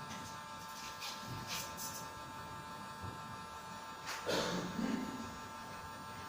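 Small electric smart blind motor running under app control, a steady high electric whine that holds an even pitch. A brief louder noise comes about four seconds in.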